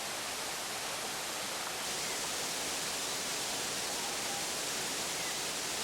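Waterfall rushing: a steady, even hiss of falling water, turning a little brighter about two seconds in.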